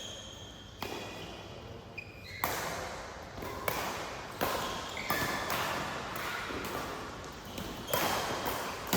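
Badminton rally: rackets striking the shuttlecock, a couple of separate hits and then a quick exchange of sharp hits, between one and two a second.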